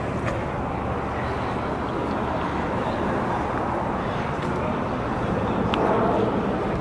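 Steady low rumble of car engines running.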